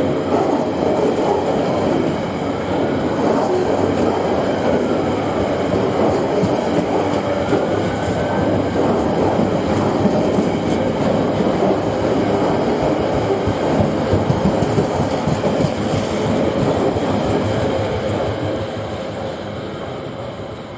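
Diesel freight train passing, its wagons rolling over the rails with a clickety-clack and a faint wheel squeal now and then; the sound fades away over the last few seconds as the train draws off.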